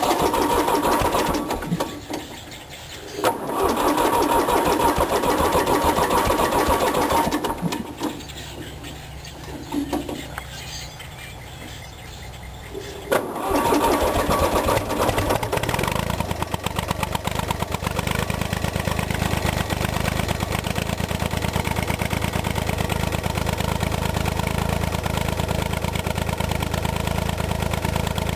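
1986 Long 360 diesel tractor being cold-started: the engine is cranked in spells with pauses between, then catches about fourteen seconds in and settles into a steady, even idle. The slow catch is down to the cold morning.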